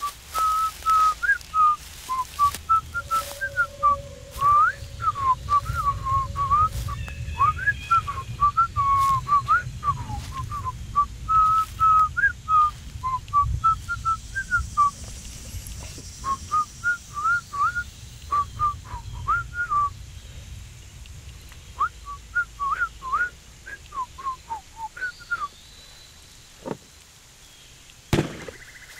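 A songbird singing a long, rapid run of short, varied whistled chirps, broken by a few brief pauses. A single sharp crack sounds about a second before the end.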